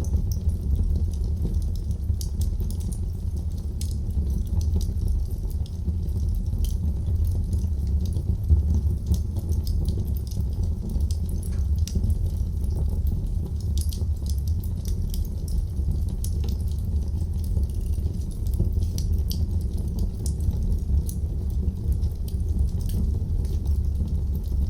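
Wood fire burning in a fireplace: a steady low rumble of the flames with frequent small crackles and pops, one louder pop about eight and a half seconds in.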